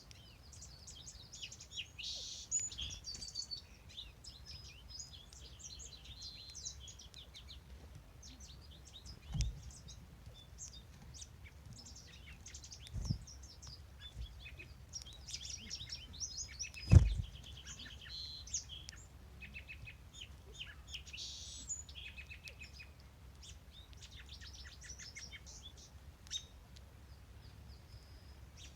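Several songbirds singing and chirping, their high songs overlapping, over a low steady rumble. Three dull thumps break in, about a third of the way in, near the middle, and the loudest about two-thirds through.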